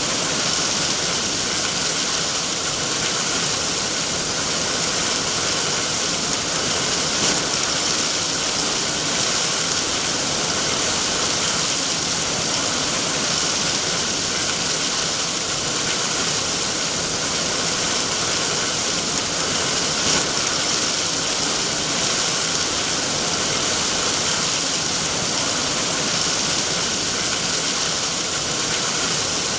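Steady heavy rain: an even, unbroken hiss that stays at one level.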